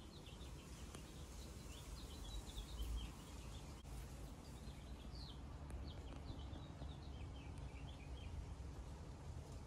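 Small birds chirping, a steady scatter of short, high twittering notes, over a faint low rumble of outdoor background noise.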